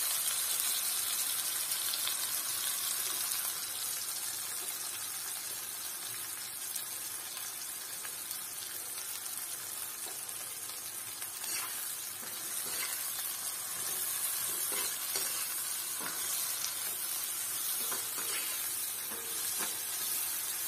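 Dried prawns sizzling steadily in hot oil in an iron pan on low flame, with a few scrapes of a steel spatula stirring them in the second half.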